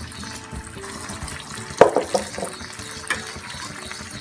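Hot oil sizzling steadily as batter-coated purnam balls deep-fry in an aluminium kadai. A few sharp metal knocks come about two seconds in, and one more about a second later, as the steel ladle strikes the pan.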